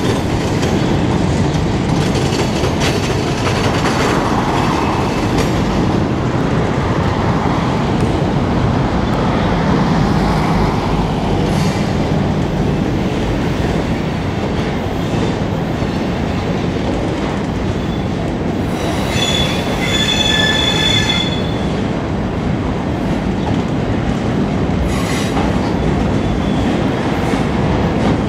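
Long freight train of boxcars rolling slowly past, steel wheels rumbling and clacking on the rails. About 19 seconds in, a high-pitched wheel squeal rings out for about two seconds.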